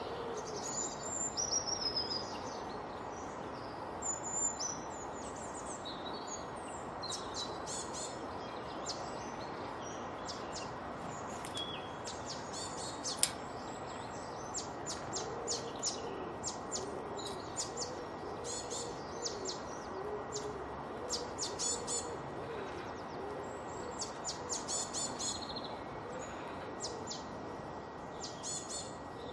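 A chorus of wild birds singing and chirping, with many overlapping high trills and whistled notes and, now and then, lower soft calls, over a steady background hiss.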